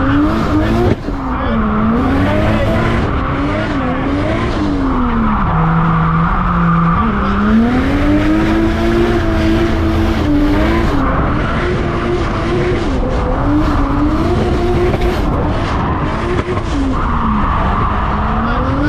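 Turbocharged RB25 Neo straight-six engine revving up and down hard while drifting, its pitch rising and falling over and over, with tyres squealing in long stretches.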